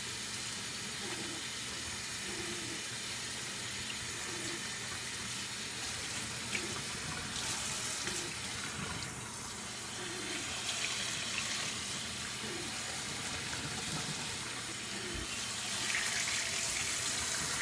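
Warm tap water running steadily while hair is being wet for shampooing. The splashing gets a little louder near the end.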